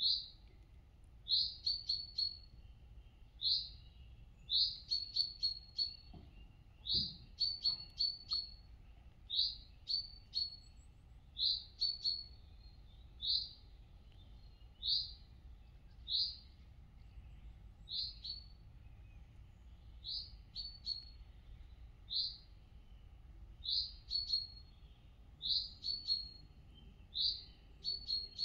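A songbird singing, repeating short high chirping phrases about once a second, the spacing slightly uneven.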